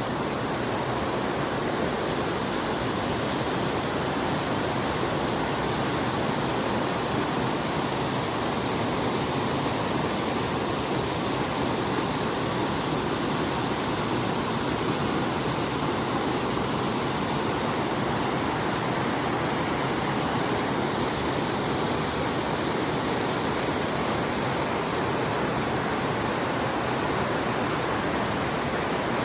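Steady, unbroken rush of fast-flowing water, as from a mountain stream or waterfall.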